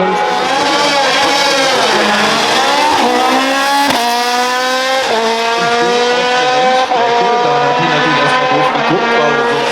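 Hill-climb race car accelerating hard from the start, its engine pitch climbing and falling back at each upshift through about four gear changes. There is a sharp crack at one shift about four seconds in.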